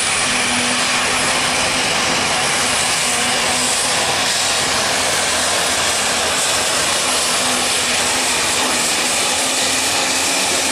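Super stock diesel pickup pulling a sled at full throttle: the engine runs flat out at a steady, loud pitch under the high whistle of its turbochargers.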